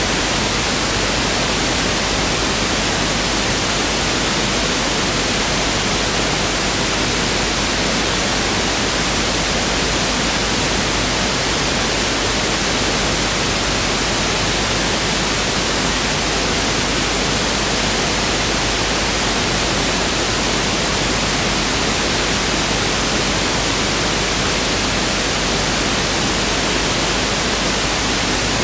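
Pink noise (1/f noise) test signal: a steady, even hiss at a constant level, with no change.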